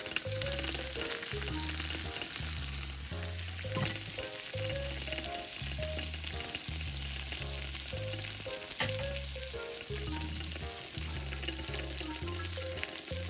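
Meat sizzling as it fries, a steady fine crackle, under background music with a bass line in a steady rhythm. A single sharp click sounds about nine seconds in.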